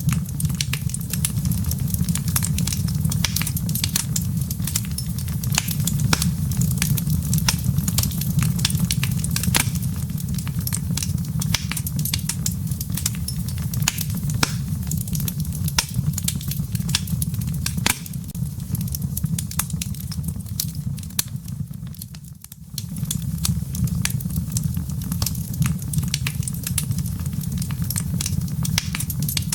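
Wood fire crackling in a fireplace: a steady low rumble of flames with frequent sharp pops and snaps from the embers. The sound dips briefly about three-quarters of the way through, then carries on as before.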